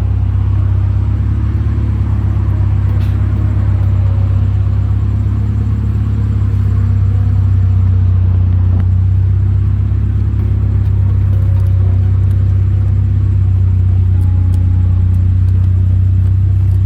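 Proton Iriz engine and aftermarket exhaust running steadily with a strong, even low drone, getting slightly louder partway through.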